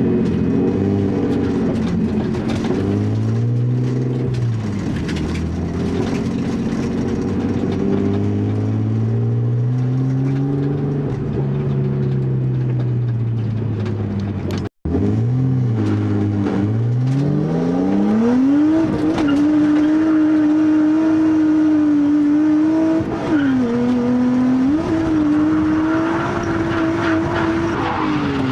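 Nissan Skyline R32's RB20DET turbocharged straight-six revving up and falling off again and again while drifting, then held high for several seconds with brief dips; tyres squeal toward the end. The engine runs raised boost on its stock turbo with single-digit compression readings. The sound cuts out briefly about halfway.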